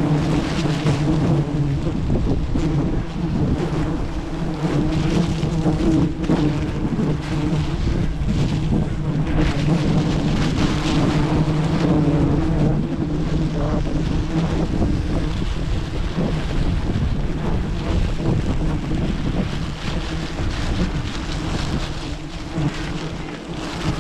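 Steady hum of a swarm of giant honeybees buzzing around the comb, with wind rushing over the microphone.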